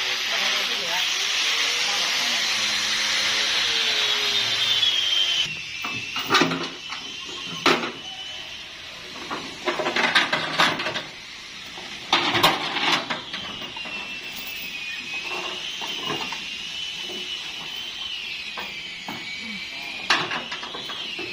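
Two-stroke chainsaw running at high speed, dropping in pitch and cutting off about five seconds in. Several sharp knocks follow, then a fainter engine whine that wavers up and down.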